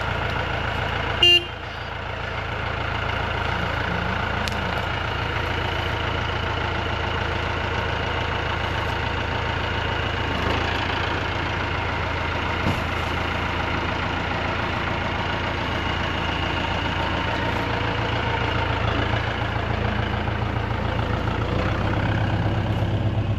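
Vehicle engine running steadily, with one short, loud horn toot about a second in; the engine note changes near the end.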